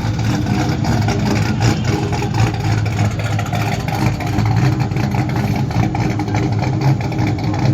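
A car engine running steadily, a continuous low hum with a rough rumble over it.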